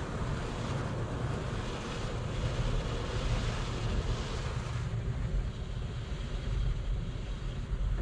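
Automatic car wash machinery running: a steady low rumble with a hiss over it that eases about five seconds in.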